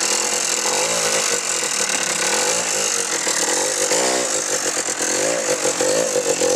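90cc ATV engine running and revving up and down several times, with a gear noise that the rider calls not good.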